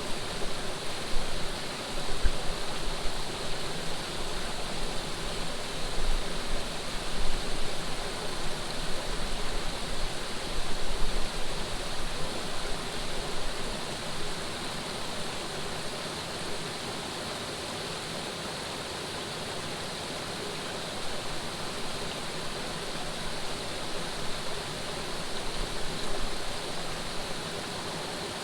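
Running water flowing steadily, with irregular low gusts of wind rumbling on the microphone through the first half and again near the end.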